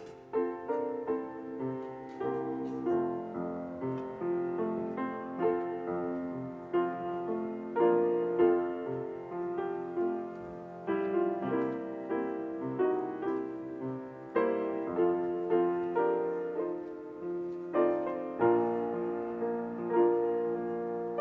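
Solo piano music: a gentle, evenly paced piece of struck chords and melody notes, each fading after it is played.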